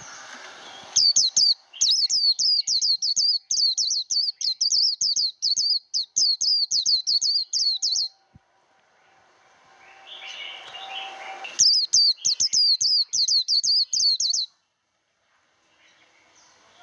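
White-eye singing its rapid 'líu' competition song: a fast string of high, sharply repeated chattering notes, running for about seven seconds, then again for about three seconds after a pause. A soft rising hiss comes before each run.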